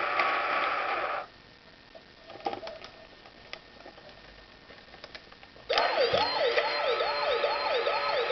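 Tonka Chuck toy fire truck's electronic sound effects through its small speaker: one effect cuts off about a second in, a few clicks follow, then a fast yelping siren starts near the end, sweeping up and down about two to three times a second.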